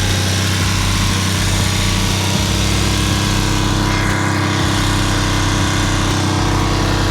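Ducati Monster S2R 800's air-cooled Desmodue L-twin on its stock exhaust, idling steadily while still warming up after a cold start. The engine carries an extra mechanical noise that the owner puts down to a worn timing-belt bearing.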